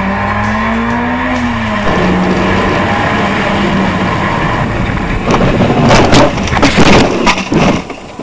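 A car engine running with a wavering pitch, giving way after about two seconds to a steady rushing noise. From about five seconds in come several loud, harsh bursts, which stop abruptly just before the end.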